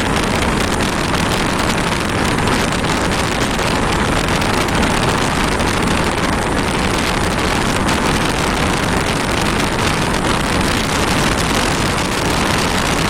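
Suzuki Hayabusa's inline-four engine running with both silencers removed, holding a steady note with no revving, mixed with wind noise on the microphone.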